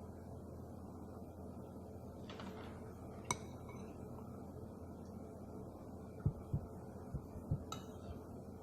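Eating utensils against a dish during a meal. There is one sharp clink about three seconds in, a few dull low knocks later on, and a lighter clink near the end, all over a steady low hum.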